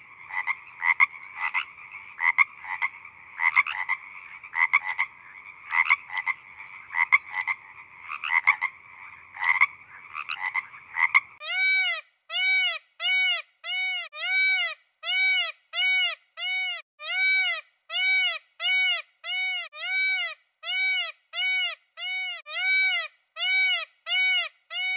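Frogs croaking in a rapid, pulsing chorus. About eleven seconds in it switches abruptly to a cat meowing over and over, evenly spaced, each meow rising and falling in pitch, a little more than one a second.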